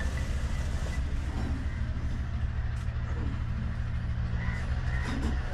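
Large Ruston Hornsby diesel engine running steadily, with a low, even, fast beat.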